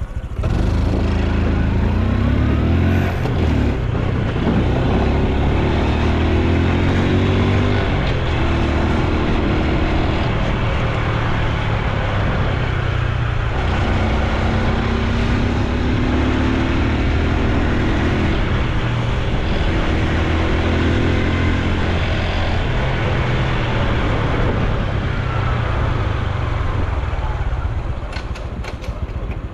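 Honda Super Cub C125's single-cylinder four-stroke engine and exhaust while riding, the pitch climbing and dropping back several times as it accelerates through the gears, with wind rushing over the microphone. The engine eases off near the end.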